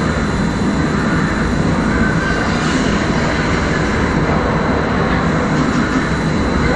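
Hurricane-force wind blowing hard and buffeting the microphone: a loud, steady rushing roar with a heavy low rumble.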